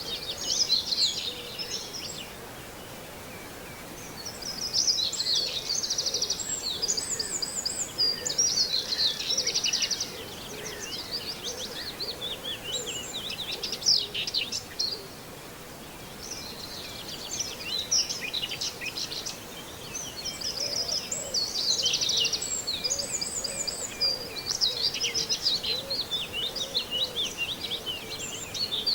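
Common whitethroat singing: bursts of fast, scratchy, chattering warble repeated with short pauses between, over a steady outdoor background.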